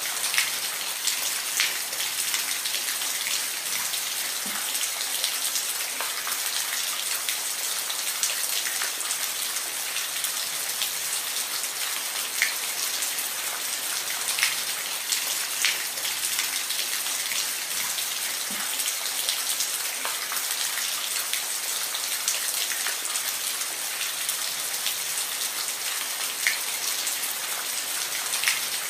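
Steady rain falling, an even hiss with frequent sharp drops pattering on a hard surface.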